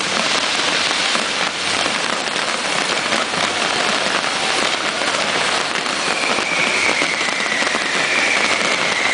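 Fireworks crackling, a dense even mass of fine pops and sizzles. From about six seconds in, a faint high whistle slides slowly down in pitch.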